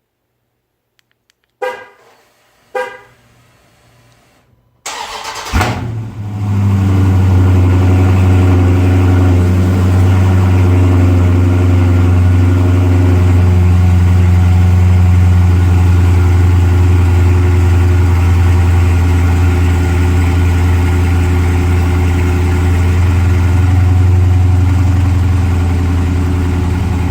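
Two short beeps, then a vehicle engine cranks briefly and catches about five seconds in on a cold start, settling into a loud, steady idle.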